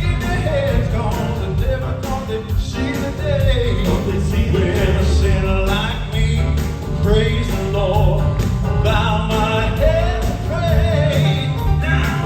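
Live southern gospel male vocal quartet singing with full band accompaniment, with a strong, steady bass and drum low end under the voices.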